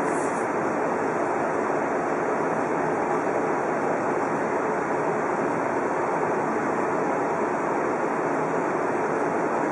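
Odakyu Romancecar VSE (50000 series) express train running at speed, heard from inside the front observation cabin: a steady, even rolling and rushing noise.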